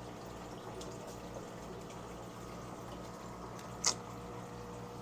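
Steady background of running water with a low hum, and one short sharp click or tap about four seconds in.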